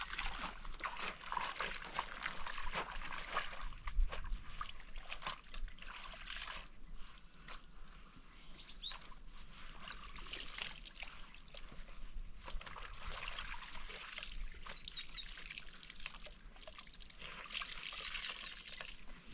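Water trickling and splashing, with many small clicks and splashes, louder at the start and again near the end. A few short high chirps come through in the middle.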